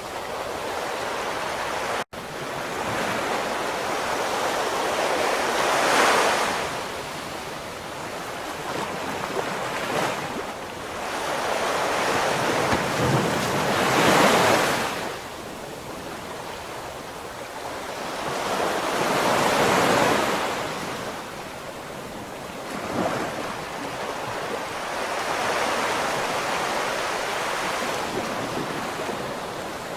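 Ocean waves breaking and washing on the shore: a steady surf hiss that swells with each wave, the biggest coming roughly every six to eight seconds. There is a brief dropout about two seconds in.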